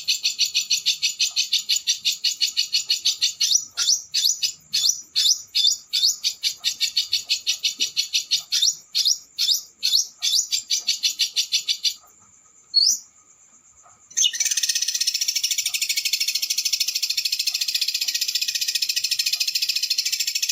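A small songbird's recorded song used as a tutor track: first a rapid run of repeated notes, then a string of quick falling notes. It breaks off about twelve seconds in, leaving a single short rising whistle, and a second or so later a continuous, fast, harsh rolling trill takes over.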